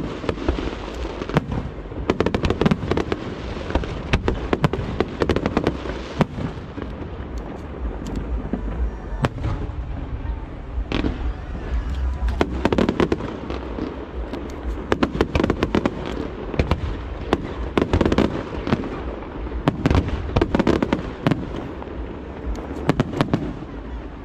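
Aerial fireworks shells bursting in quick, irregular succession, sharp bangs and crackles over a continuous low rumble.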